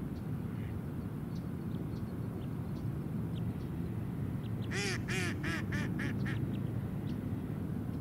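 A water bird gives a quick series of about seven pitched, yapping calls over a second and a half, over a steady low background rumble.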